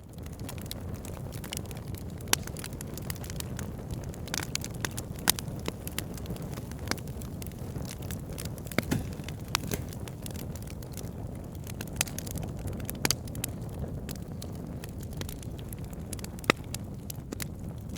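Wood fire burning steadily with a low rumble of flames and irregular crackles and sharp pops from the logs.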